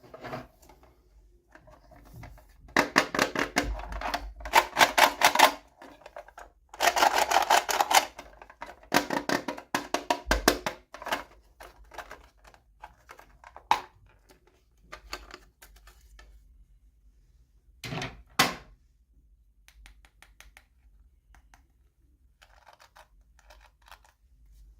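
Plastic toy packaging being handled and opened: several bursts of rapid crackling and clicking, then a few separate sharp clicks and faint rustles.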